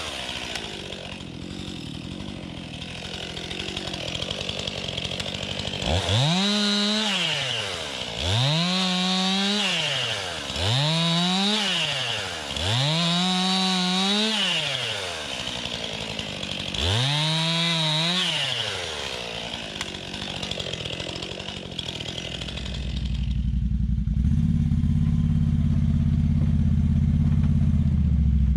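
STIHL MS261 chainsaw making five cuts, the engine each time rising in pitch, holding under load, then falling back toward idle, with quieter running in between. Near the end the saw gives way to a steady, lower engine, an ATV running.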